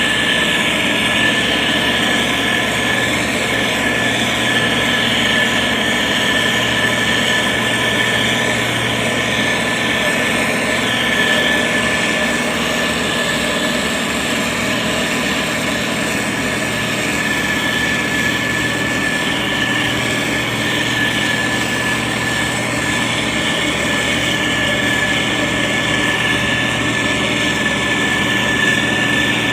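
Diesel engine of heavy road-building machinery running steadily under load, with a constant high-pitched whine over the engine.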